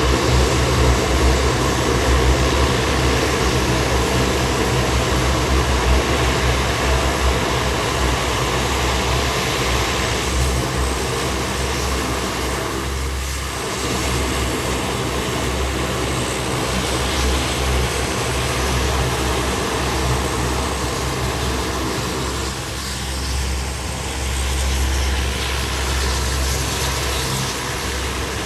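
C-130 Hercules's four turboprop engines and propellers running steadily on the ground in a continuous loud drone, easing off slightly twice.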